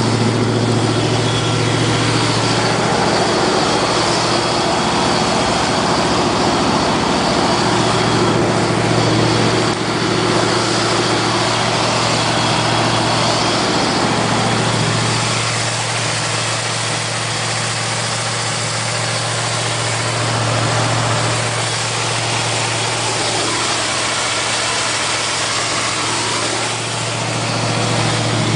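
Straight-piped Chevy 350 small-block V8 with a big cam, idling steadily while it warms up after a cold start at about minus 25.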